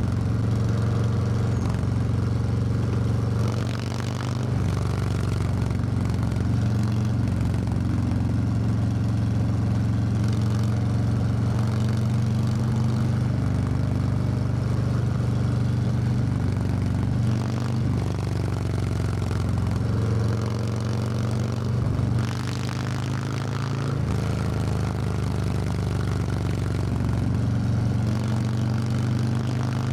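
Harley-Davidson Low Rider S V-twin engine running under way at steady cruising revs, with wind and road noise. Its pitch dips and picks up again a few times as the throttle eases and opens.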